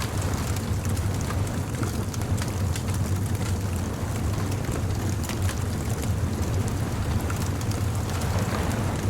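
Bonfire crackling with scattered small pops over a steady low rumble of surf on a beach.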